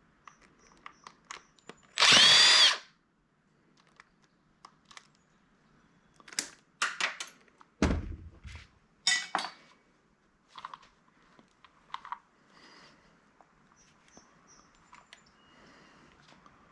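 A power drill-driver runs briefly about two seconds in, backing out one of the handheld scanner's remaining case screws. It is followed by scattered clicks and knocks of the plastic casing and screws being handled, with one heavier knock near the middle.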